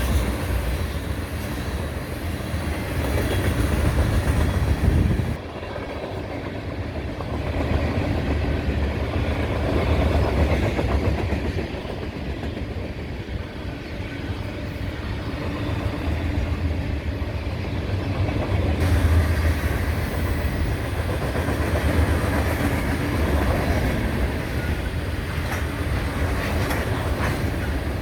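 Long freight train rolling past, a continuous heavy rumble of wheels on rail strongest in the low end. The higher sounds drop away abruptly about five seconds in and return around nineteen seconds.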